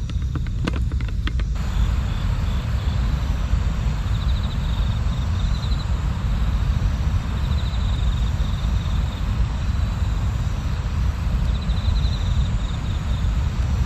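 Steady low rumbling noise outdoors, with an insect trilling in short pulsed bursts three times.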